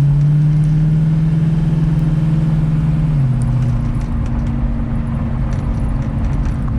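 1967 Ford Mustang's 331 stroker V8 running as the car cruises, heard from inside the cabin. Its steady low drone drops in pitch about three seconds in.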